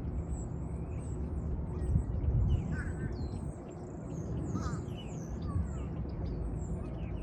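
Many wild birds chirping and calling, with short high notes and some gliding calls, over a low rumbling noise that swells about two seconds in.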